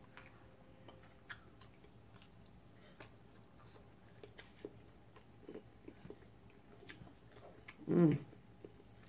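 A person chewing and eating, with small scattered clicks of a fork against a paper plate, and one short hummed vocal sound about eight seconds in.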